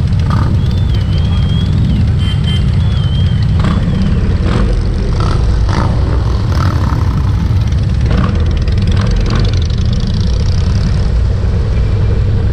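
Many motorcycle engines rumbling steadily together as a mass ride passes, with a high warbling tone in the first few seconds and short sharp sounds scattered through it.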